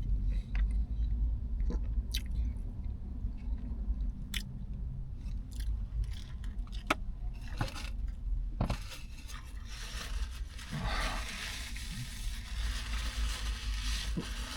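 Close-miked chewing of a sub sandwich, with scattered sharp mouth clicks and crunches; from about ten seconds in, a denser stretch of crackly scraping.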